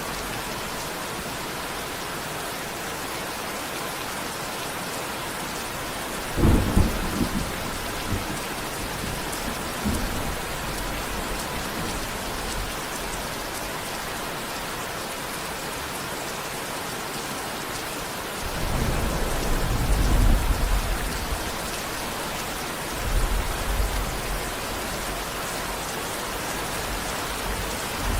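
Steady heavy rain with thunder rumbling several times: a sharp clap about six seconds in, a longer roll about eighteen seconds in, and a smaller rumble a few seconds after that.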